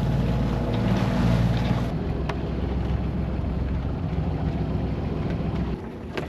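Sailboat's auxiliary motor running steadily under way. Its hum changes abruptly about two seconds in and drops away near the end.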